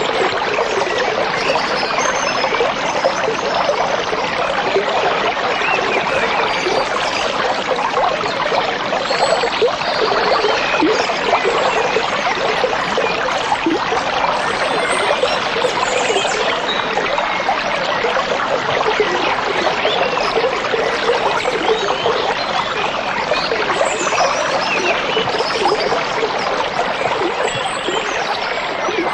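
A stream of running water trickling and babbling steadily, with faint high bird chirps now and then.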